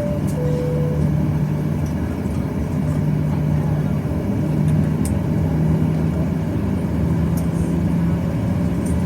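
Steady cabin noise inside a Boeing 737-800: a low drone from the aircraft with a hum that rises slightly in pitch. A short alternating two-note tone sounds in the first second.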